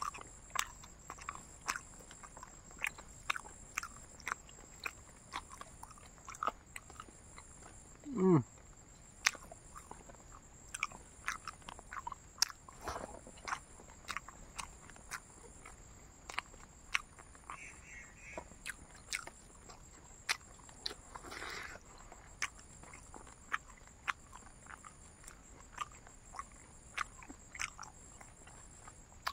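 Close-up chewing of crispy dried fried pork: irregular sharp crunches and mouth clicks that run on and off, with a short low vocal sound falling in pitch about eight seconds in.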